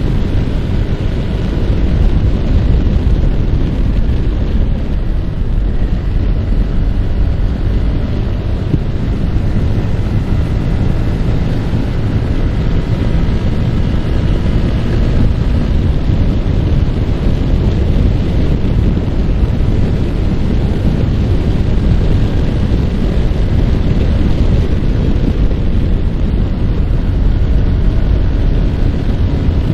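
Wind buffeting on the microphone, with a Yamaha R15's single-cylinder four-stroke engine running steadily underneath while riding.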